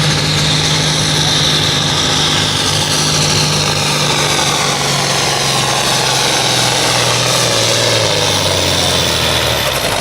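Large engine running at a steady idle, loud, with a high whine that sags slowly in pitch.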